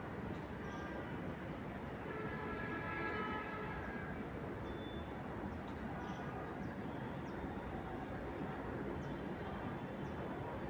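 Steady outdoor rumble, with a held chord-like tone from about two to four seconds in, like a distant horn, and faint short high bird chirps scattered throughout.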